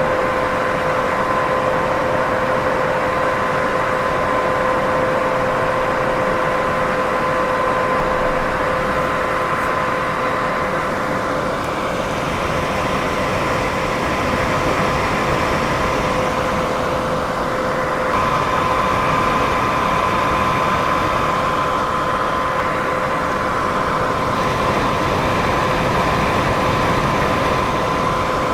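Steady white noise: a constant, even hiss with no breaks, carrying faint steady tones underneath.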